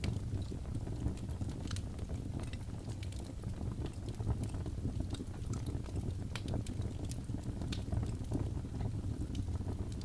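Fireplace fire crackling: a steady low rumble of flames with irregular sharp pops and snaps.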